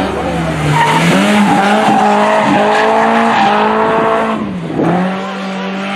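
BMW E30 318is's four-cylinder engine held at high revs as the car slides sideways through a bend, with tyres squealing. The revs drop sharply about four and a half seconds in and then climb again.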